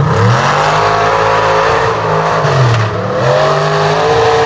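Mega mud truck engine running hard and revving up and down: the pitch dips and climbs near the start, drops again past the middle, then climbs back and holds high.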